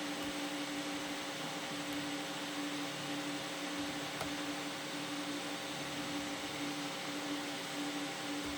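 Several 3D printers running, a steady whirring hum.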